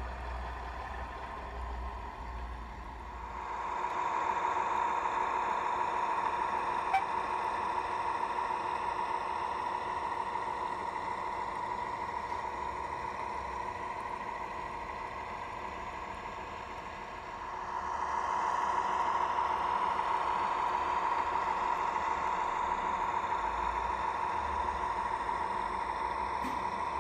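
Sound-decoder recording of a British Rail Class 03 shunter's Gardner diesel engine, played through a small speaker in an O gauge model locomotive. The engine runs steadily and gets louder about four seconds in, eases back slightly, then gets louder again near eighteen seconds.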